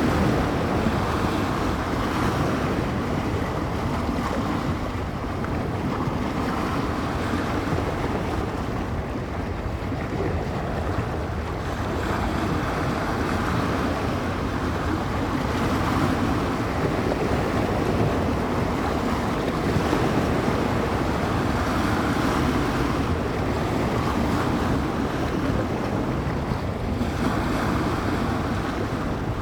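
Bay waves crashing and washing against the shore, swelling and falling every few seconds, with wind blowing over the microphone and a heavy low rumble.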